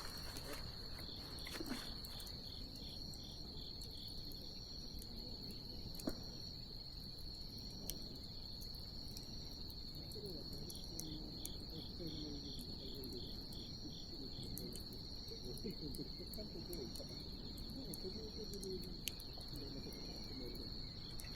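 Night insects, crickets, calling: one steady high trill, with trains of rapid pulsed chirps from another starting and stopping. Beneath it, a wood bonfire crackles, with occasional sharp pops.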